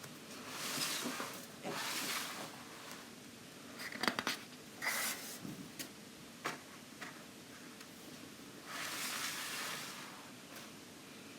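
Thick, card-like coloring book pages being turned and handled: three soft swishes, with a cluster of light clicks and taps in the middle.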